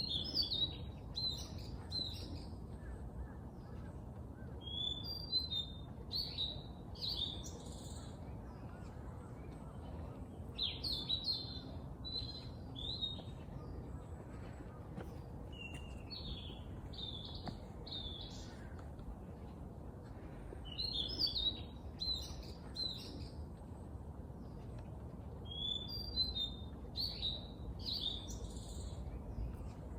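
A songbird singing short, high phrases that come back about every five seconds, over a steady low background rumble.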